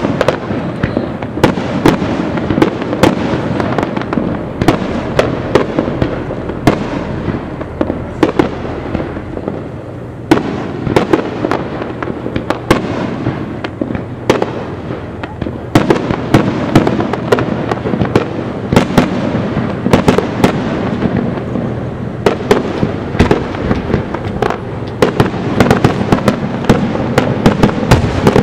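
Aerial fireworks finale barrage: shells bursting in quick succession, many sharp bangs over a continuous rumble of overlapping booms. The barrage thins briefly about a third of the way in, then builds again.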